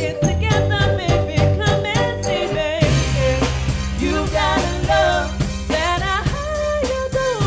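A band playing a song with a lead singer over drum kit and bass; the bass line drops lower and fills out about three seconds in.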